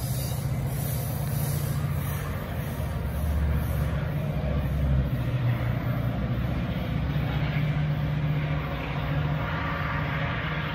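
Metra commuter train pulling out: the diesel locomotive's steady low drone with the rumble of the rolling bilevel cars.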